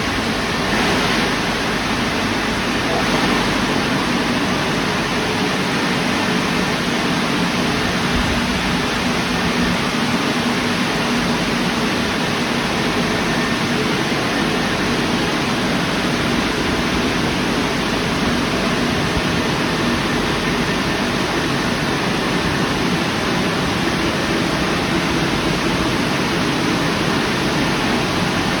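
Istobal Restyle rollover car wash running a stage of its cycle: a loud, steady rushing noise.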